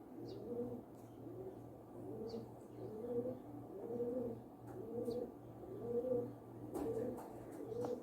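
Pigeon or dove cooing over and over, about one low coo a second, with a few faint high bird chirps.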